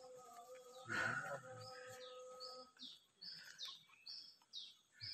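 A forest bird singing a run of repeated high whistled notes, each sliding downward, about two a second, starting about halfway through. Before that, a steady held tone is heard along with a brief voice.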